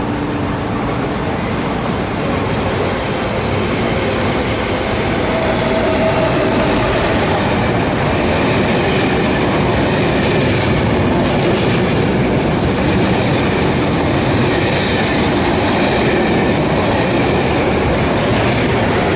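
Through train hauled by a Lok 2000 (Re 460–type) electric locomotive passing through a station at speed without stopping: a steady rail rumble that grows louder about six seconds in, with a run of wheel clicks in the middle.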